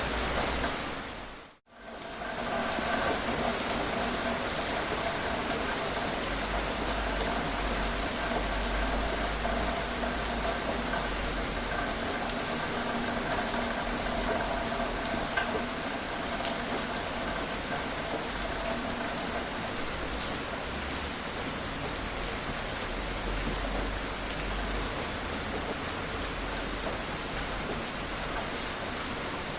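Gentle rain falling steadily: an even hiss with scattered drop ticks. About a second and a half in it drops briefly to silence, then fades back in.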